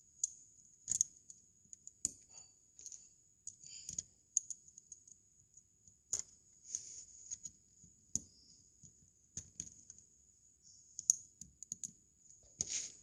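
Plastic LEGO bricks being handled and pressed together, making irregular sharp clicks and small rattles at uneven intervals, with a quick run of clicks near the end.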